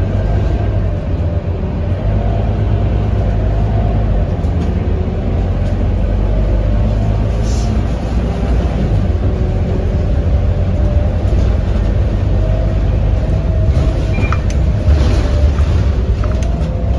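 Scania K230UB bus engine and drivetrain running on the move: a heavy, steady low rumble with a faint whine that rises and falls.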